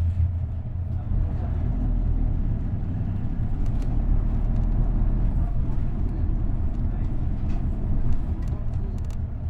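Isuzu Erga route bus's V8 diesel engine running steadily with a deep drone as the bus drives, heard from inside the passenger cabin.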